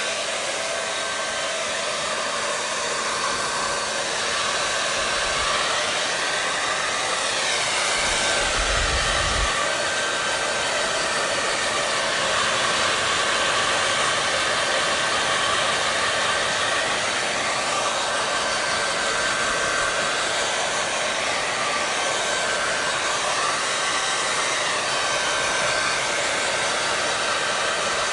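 Hair dryer running continuously: a steady airy rush with a faint constant motor whine, the tone swelling slightly now and then.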